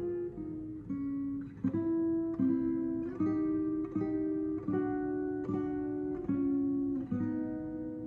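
Eastman E2OM acoustic guitar playing a chord progression, a new chord struck about every three-quarters of a second and left to ring.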